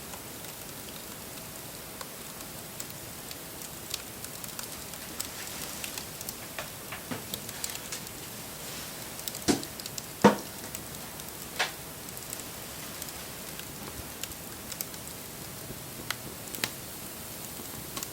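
Wood fire crackling: a steady hiss with scattered sharp pops, the loudest few coming close together about halfway through.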